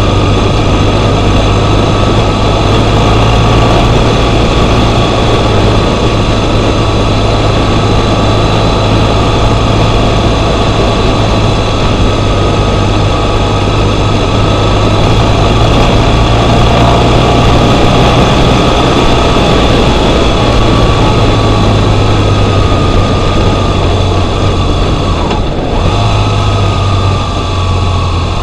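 BMW R1200GS boxer-twin engine running steadily under way, heard with a constant rush of wind and road noise on a gravel surface; the engine note dips slightly near the end.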